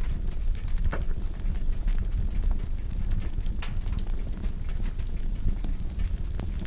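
Wood fire burning in a fireplace: a steady low rumble of flame with irregular crackles and sharp pops scattered throughout.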